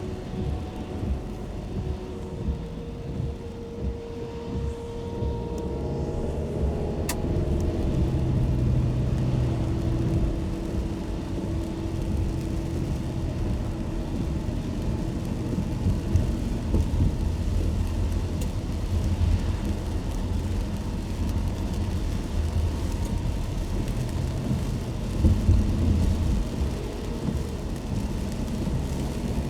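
A car driving on wet roads in the rain: a steady low road-and-engine rumble with a light hiss of rain and spray, and a single sharp click about seven seconds in.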